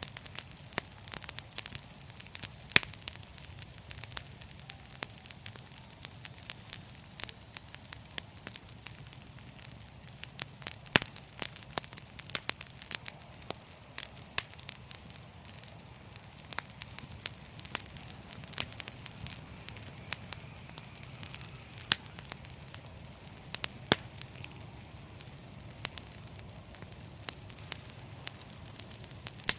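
Fireplace fire crackling: frequent sharp pops and snaps at an uneven pace over a steady low rush of flame.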